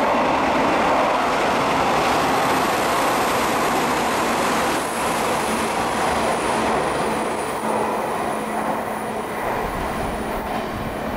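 Hanshin electric train running through a station at speed without stopping: a steady loud rush of wheels on rails that eases a little about halfway through. A faint high-pitched tone joins it from about five seconds in.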